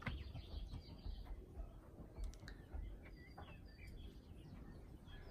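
Faint, scattered bird chirps over a low background rumble, with a few faint clicks.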